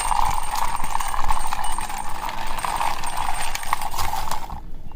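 Small toy police motorbike rolled along the ground, giving a steady whirring rattle full of fast clicks from its plastic wheels, which stops abruptly near the end.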